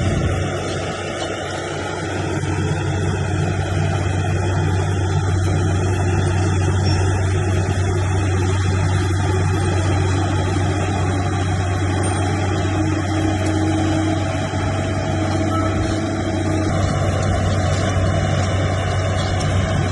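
Heavy diesel engine of earthmoving machinery running steadily under load, a deep continuous hum with a slight dip in level about a second in.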